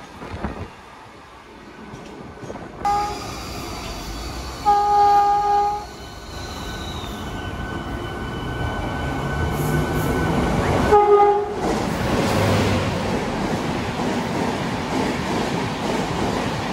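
WAP-7 electric locomotive horn sounding three times as a Rajdhani Express approaches: a short blast, a louder one about a second long about five seconds in, and another short blast about eleven seconds in. The rush and rumble of the train's red coaches passing at speed then builds and carries on.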